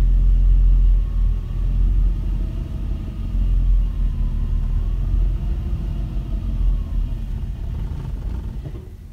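2001 Jeep Grand Cherokee's 4.7-litre V8 running: a loud, low rumble with a steady engine hum whose pitch wavers slightly. It fades out near the end.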